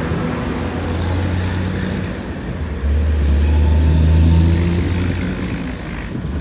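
Heavy diesel engine running, its low drone swelling louder about three seconds in for a couple of seconds, then easing back.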